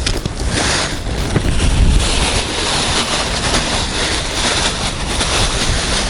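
Strong wind blowing on the microphone: a steady rush of noise with heavy low rumbling gusts, strongest about a second in.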